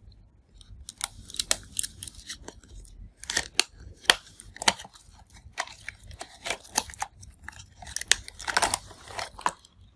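Earphone retail box being opened by hand: irregular clicks, snaps and crinkles of the packaging, thickening into a brief run of crackling near the end.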